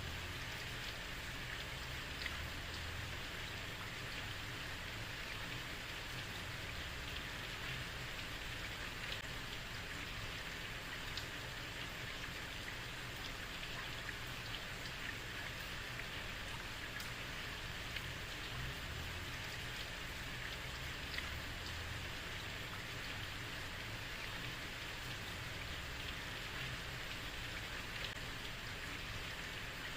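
Heavy rain falling on a street: a steady hiss of rain with scattered individual drops ticking through it.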